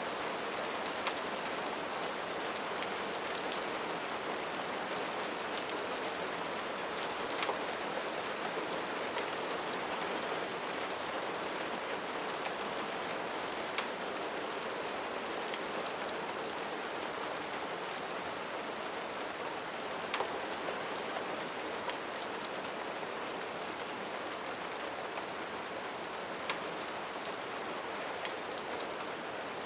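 Steady rain falling, an even hiss of drops, with a few sharp pops spaced several seconds apart.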